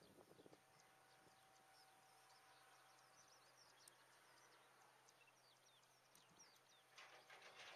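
Faint birdsong: many quick, high chirps scattered throughout, over a quiet outdoor hush, with a brief burst of rustling noise near the end.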